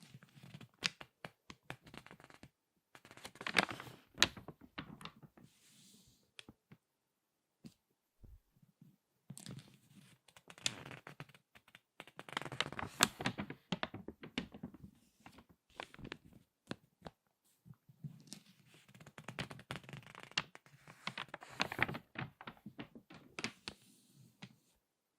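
Crinkly magazine pages being squeezed and turned by hand: dense crackling paper crinkles in bursts of a few seconds, with short quiet pauses between.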